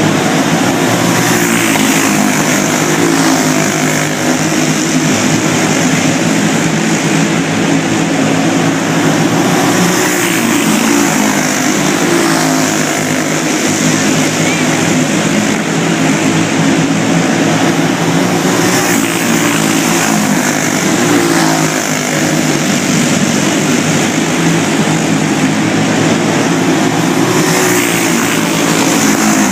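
Go-kart engines running hard in a race, their pitch rising and falling over and over as the karts accelerate and lift off.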